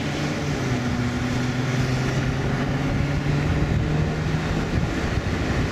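Vehicle engine running with a steady low hum under an even rushing noise, as heard from a car.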